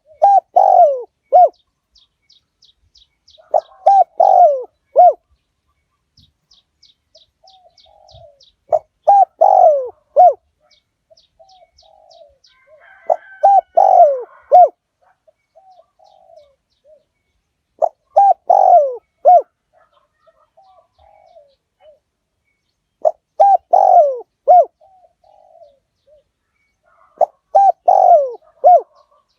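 Spotted dove cooing: a phrase of three or four coos, the longest dipping in pitch and ending on a short clipped note, repeated about every four to five seconds, seven times. Faint rapid high ticking runs between the first few phrases.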